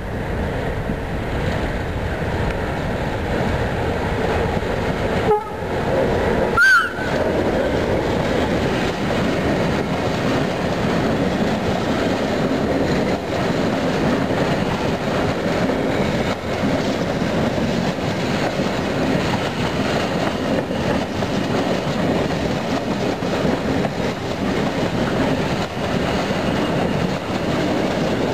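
A CFR Class 60 diesel-electric locomotive passes hauling a freight train, with a short horn blast about six and a half seconds in. A long run of covered freight wagons then rolls by with steady wheel clatter over the rail joints.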